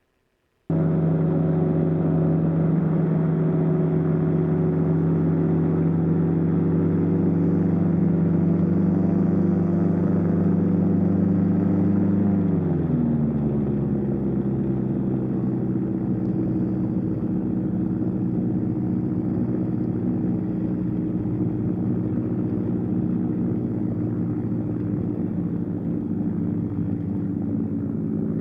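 Light aircraft engine and propeller running steadily, heard from the cockpit, cutting in suddenly just under a second in. About twelve seconds in, the engine note glides down to a lower pitch and holds steady there.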